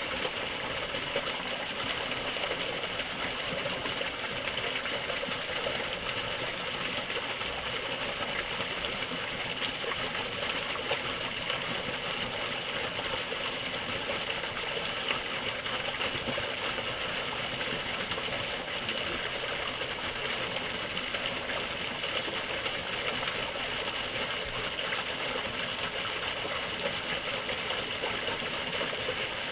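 Steady rush of falling, splashing water drops, unchanging throughout.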